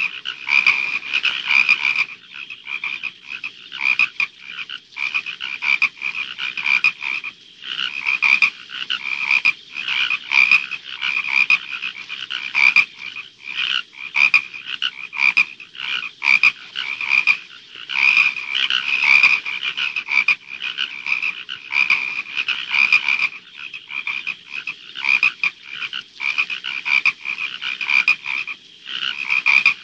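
Frogs croaking in a dense, unbroken chorus: many short calls follow one another several times a second and overlap, pitched fairly high.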